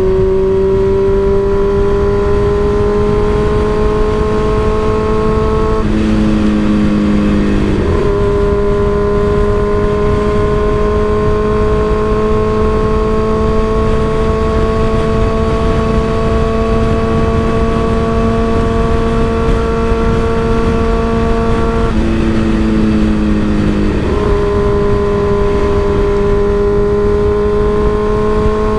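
Motorcycle engine running through an M4 aftermarket exhaust at a steady cruise, its note slowly climbing. Twice the note dips for about two seconds and then picks back up. A low rumble of wind on the microphone runs underneath.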